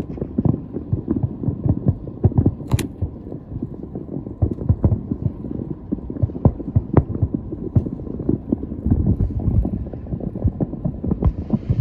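Distant fireworks display: a dense, irregular run of low booms and thumps, several a second.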